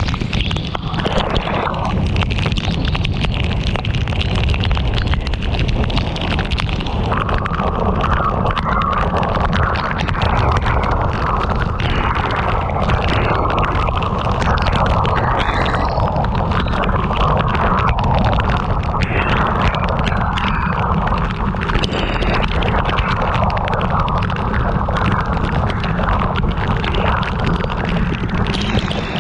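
Heavy rain pelting a moving car in a storm, a dense steady crackle over a deep rumble of wind and road noise.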